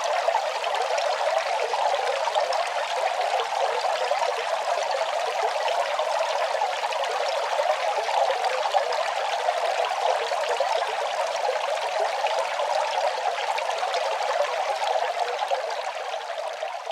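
Running water flowing in a steady, even rush, beginning to fade right at the end.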